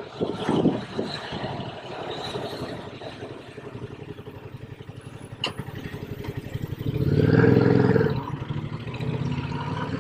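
Yamaha MT-07's parallel-twin engine running under way, swelling as it is revved up about seven seconds in, where it is loudest, then easing off.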